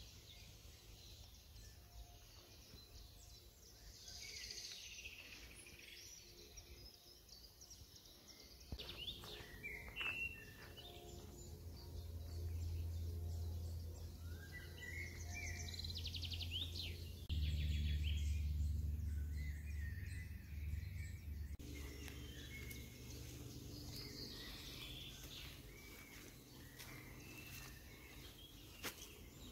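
Woodland birds chirping and singing on and off over quiet forest ambience, with a low steady rumble through the middle stretch.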